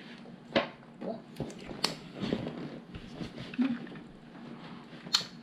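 Plastic LEGO pieces being handled and rummaged through, clattering quietly, with three sharp clicks: about half a second in, near two seconds, and near the end.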